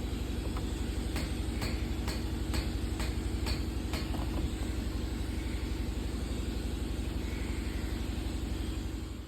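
Tata Nexon engine running with a steady rapid low pulse, and about seven sharp knocks roughly half a second apart during the first few seconds: the engine knocking sound the owner reports every day since a new battery was fitted.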